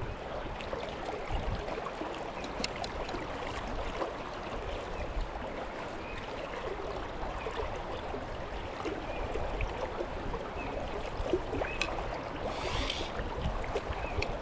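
Steady rush of fast river water flowing around the wading angler, with scattered faint clicks and a short brighter hiss near the end.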